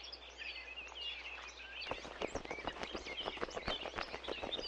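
Birds chirping in the background. From about two seconds in, a rapid run of faint clicks and taps joins them.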